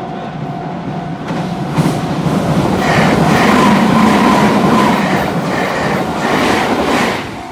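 Meitetsu electric commuter train passing close by over a bridge, its wheels clattering over the rail joints. The noise builds to a peak midway and drops away sharply near the end as the last car goes past.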